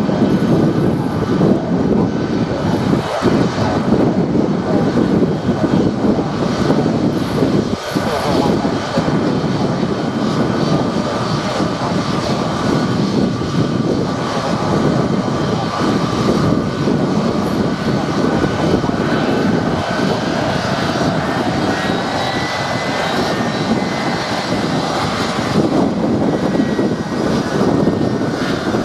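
Boeing C-17A Globemaster III's four Pratt & Whitney F117 turbofan engines running at taxi power: a steady jet rumble with a faint whine.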